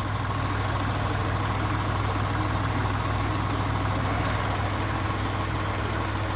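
Kubota tractor's diesel engine running steadily at low revs, a constant low hum.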